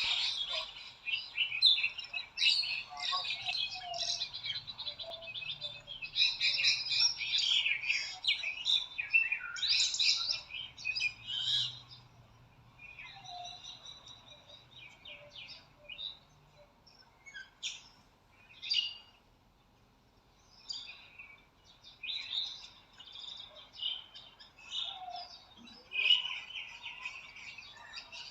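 Small songbirds chirping and singing, a dense chorus of rapid chirps and trills for the first twelve seconds or so, then thinning to scattered separate calls.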